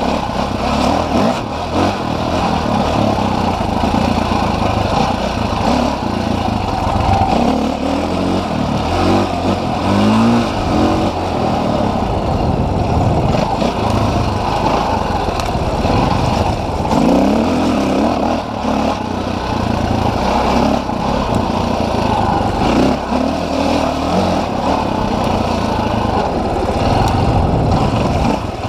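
Dirt bike engine running loud and revving up and down over and over, its pitch rising and falling as the throttle is worked.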